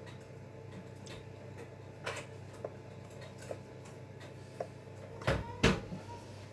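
Light clicks and knocks of kitchen utensils and bakeware, a few scattered ones and then two louder knocks close together about five seconds in, over a steady low hum.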